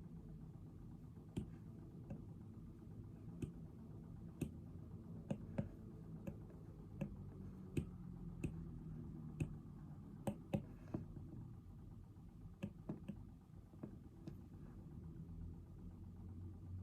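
Faint, irregular sharp clicks and taps of desk work, such as a pen, keys or small objects handled on a desk, coming every half second to a couple of seconds, over a low steady room hum.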